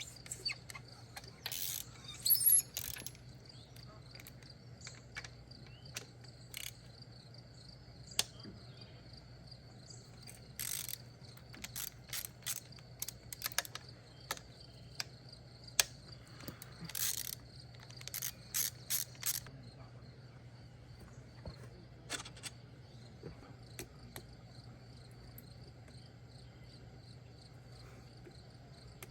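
Irregular clicks and short rattling bursts of hand tools working on metal engine parts, including ratchet-like ratcheting, loudest around two to three seconds in and again in several clusters later. Underneath runs a steady high cricket chirping and a low hum.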